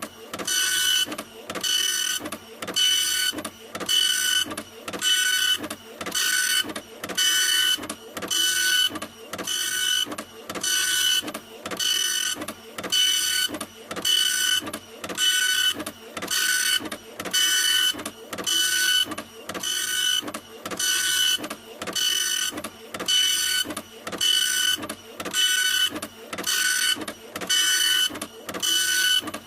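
A printer running continuously, with a whirring mechanical pass repeated about once a second, each pass carrying a high steady whine.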